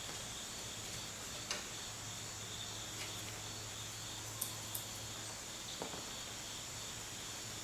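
Steady low hum and hiss with a few faint, sharp metallic clicks, about four in all, from hand tools working the nuts and bolts of a car's front suspension.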